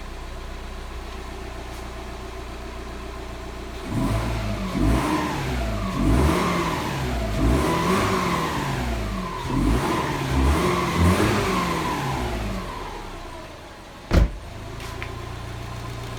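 Subaru B4's flat-four boxer engine, freshly rebuilt with a replacement piston in the fourth cylinder, idling and then revved in a series of quick throttle blips for about nine seconds before settling back to idle; the owner says it now seems to run evenly. A single sharp knock about 14 seconds in.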